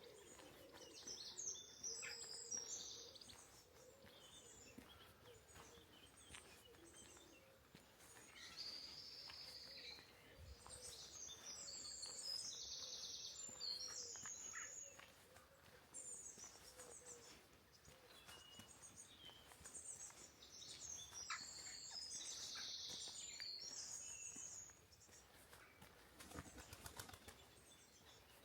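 Small songbirds singing in several phrases of quick, high twittering notes, with quieter gaps in between.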